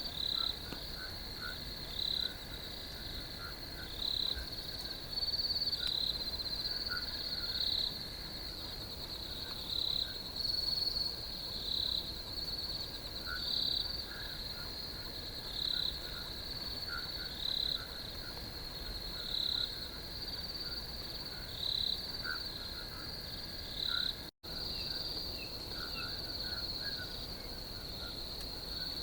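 Crickets chirping in a steady high trill, with a louder chirp about every two seconds over it. A brief break in the sound comes about 24 seconds in.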